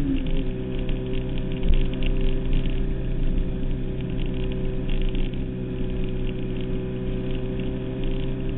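Suzuki Hayabusa's inline-four engine running under way, heard from the rider's seat with wind noise over it. Its note drops once right at the start, then holds steady.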